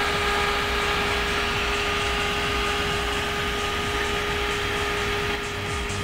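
High-speed NMB fan on a Thermolab Baram CPU cooler running flat out at about 3600 rpm: a loud, steady rush of air with a steady whine on top.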